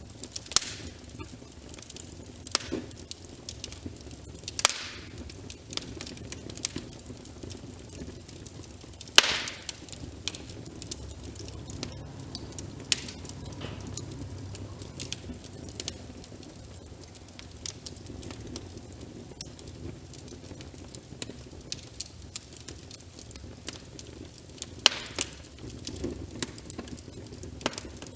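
Wood fire crackling in a fireplace, scattered sharp pops and snaps with a few much louder cracks several seconds apart, over a steady soft hiss of rain.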